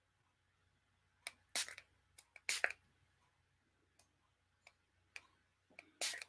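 Hand-pump mist spray bottle of green colour spray spritzing onto paper in a series of short, irregularly spaced bursts, each a click followed by a brief hiss.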